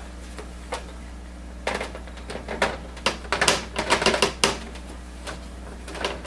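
Quick run of plastic clicks and rattles from handling the printer's plastic paper tray and its cover, bunched between about two and four and a half seconds in, over a steady low hum.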